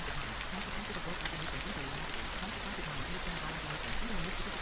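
Steady gentle rain, an even hiss with small drop ticks, with a faint, low murmuring voice beneath it.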